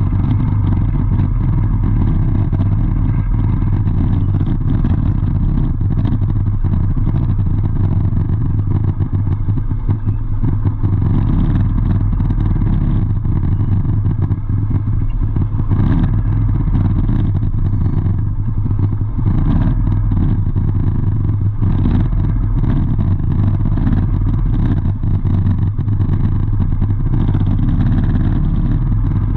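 Vehicle engine running steadily, a constant low hum with traffic noise over it.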